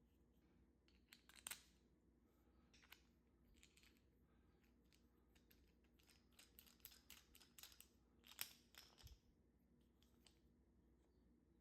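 Near silence, with a few faint clicks and short rustles, most of them in a cluster a little past halfway.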